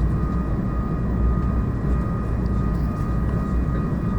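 Airbus A220 cabin noise in flight: a steady low rumble of airflow and the Pratt & Whitney PW1500G engines, with a thin steady whine on top.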